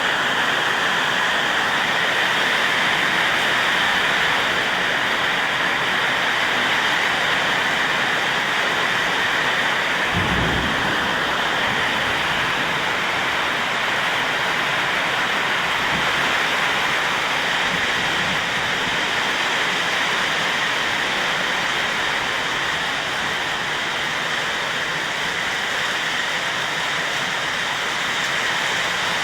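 Heavy rain pouring down in a strong storm, a dense steady hiss. About ten seconds in there is a brief low thump, and a fainter one a few seconds later.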